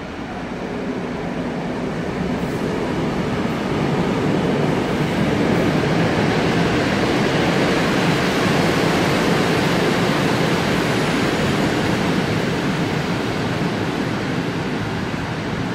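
Locomotive-hauled passenger train rolling past on the rails: a steady rumble of wheels on track that swells to its loudest around the middle and slowly fades.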